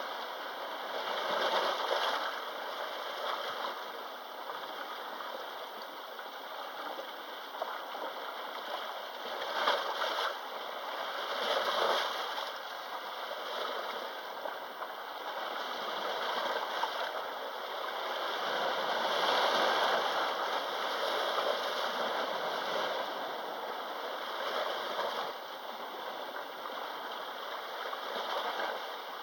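Sea waves washing in and drawing back, the noise swelling and easing every few seconds, loudest in surges about 10 and 20 seconds in.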